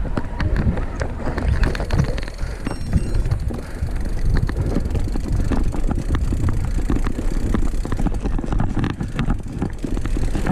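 Mountain bike riding a forest trail: a steady low rumble with frequent rattling clicks from the bike.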